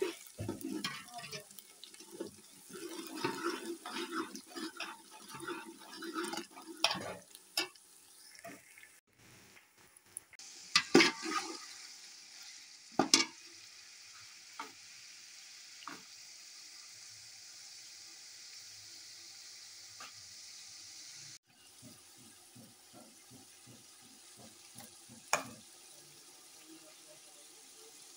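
A metal spoon stirring and scraping in a metal pot of frying onions with ginger, garlic and green chilli. Then chicken pieces fry in the pot with a steady sizzle, and the spoon knocks sharply against the pot a couple of times.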